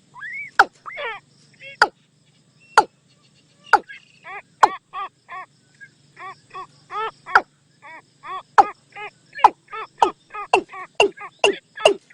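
Watercock calls: a series of short, hollow pitched notes that speed up toward the end, mixed with sharp clicking notes. It is a lure call for drawing watercocks in.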